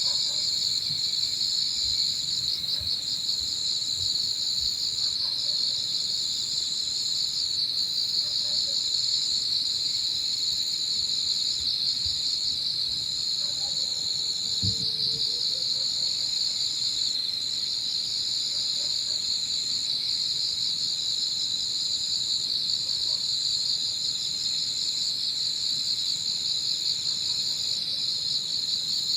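Evening chorus of autumn insects: a dense, steady trilling, with a higher insect song over it that drops out briefly every second or two.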